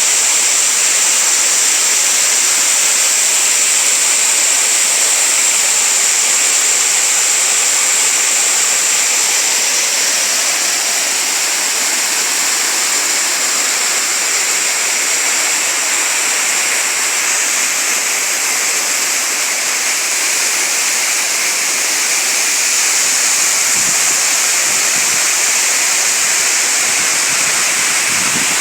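Small waterfall pouring into a rocky stream: a steady, hissing rush of falling and flowing water.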